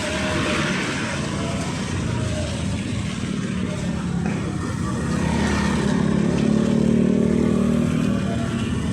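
Street traffic: a motor vehicle engine running close by, growing louder past the middle and then easing off.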